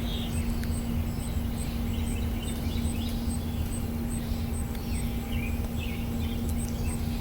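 Songbirds chirping in short, scattered calls over a steady low rumble and hum. A faint high tick repeats about twice a second throughout.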